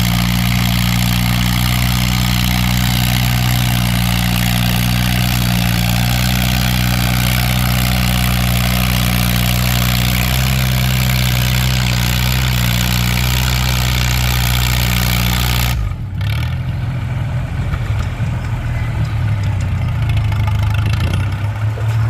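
Antique farm tractor engine running at a steady pitch with a loud hissing, rushing noise over it. About three-quarters of the way through this cuts off abruptly to a rougher, uneven low engine sound without the hiss.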